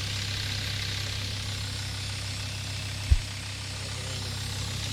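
2006 Sprinter van's engine idling steadily while it warms up with a freshly replaced water pump. A single short low thump about three seconds in.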